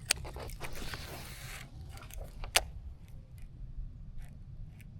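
Fishing tackle being worked from a kayak: a sharp click, a second or so of zipping hiss, then another sharp click about two and a half seconds in, over a steady low rumble.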